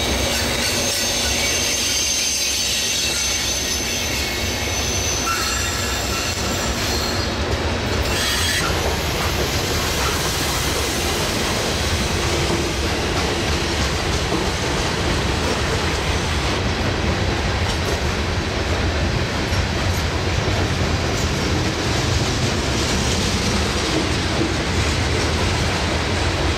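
Loaded coal hopper cars of a freight train rolling past on curved track: a steady rumble and clatter of steel wheels on rail, with high-pitched wheel squeal in the first several seconds.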